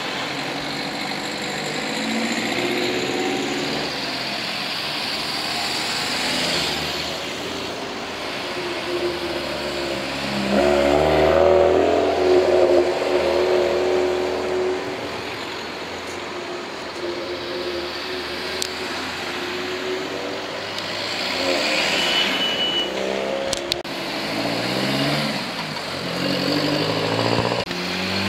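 Several modified cars accelerating away one after another, engines revving up and falling back as each goes past; the loudest pass is about ten to fourteen seconds in.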